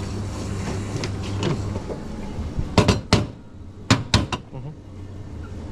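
Several sharp knocks and clatters of coffee-making gear and crockery being handled, two close together and then three more about a second later, over a steady low machine hum that drops away partway through.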